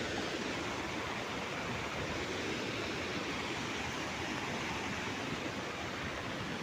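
Steady rush of water in heavy rainfall: a continuous, even hiss with no distinct drops, knocks or other events.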